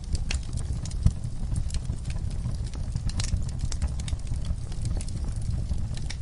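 Wood fire crackling, with frequent sharp, irregular pops over a low steady rumble; one louder pop about a second in.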